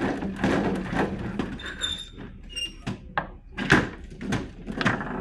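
A run of sharp knocks and clacks at irregular intervals, several with a brief high ring after the hit.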